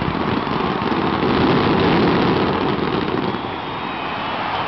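Fireworks finale barrage: a dense, continuous crackling and rumbling from many shells bursting at once. It eases off about three seconds in as the gold glitter falls away.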